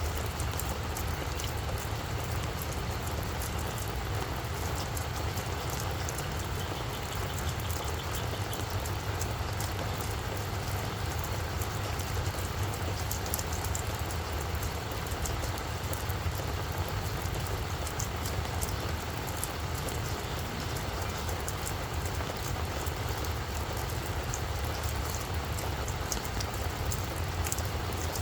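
Steady rain falling on a flower bed, with scattered sharp ticks of individual drops over an even hiss. A steady low rumble runs underneath.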